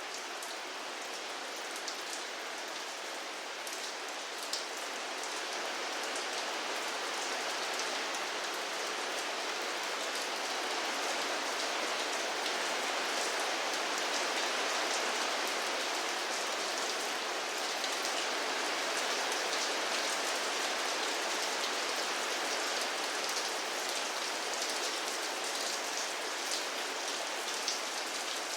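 Steady rainfall, a dense even patter with individual drops ticking through it, swelling a little in strength about a third of the way in.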